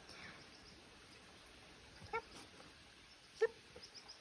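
A dog whimpering: two short, high whines, one about two seconds in and one near the end.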